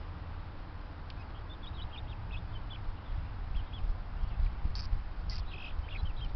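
Backyard birds chirping, many short high chirps from about a second in, over a steady low rumble.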